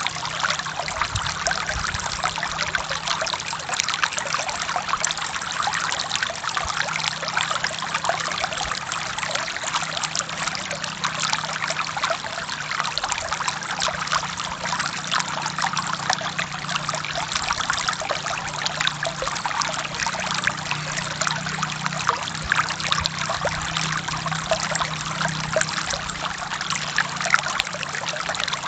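Forest stream flowing over rocks: a steady rush of water with dense fine splashing and trickling, over a low steady drone.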